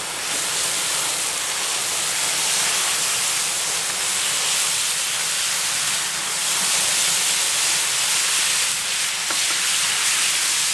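Prawns and other seafood frying in oil on a hot grill fire plate, a steady loud sizzle.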